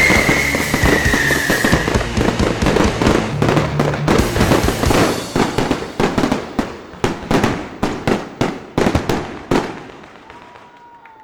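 Fireworks display: a dense run of sharp bangs and crackles that grow sparser and stop a little before the end. A falling whistle sounds in the first couple of seconds.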